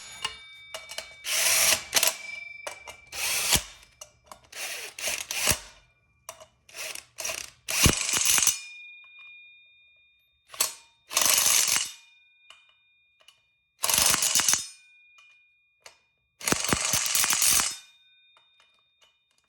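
Socket ratchet clicking in repeated runs of strokes, each run about half a second to a second long with short pauses between, as the rear sprocket's fasteners are worked on a motorcycle.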